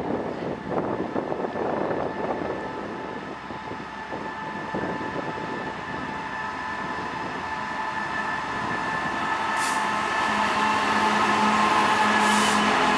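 British Rail Class 66 diesel-electric freight locomotive approaching and passing slowly at the head of a freight train, its two-stroke diesel engine growing steadily louder as it nears and holding a steady low note for the last few seconds. A faint squeal of wheels on the rails joins in near the end.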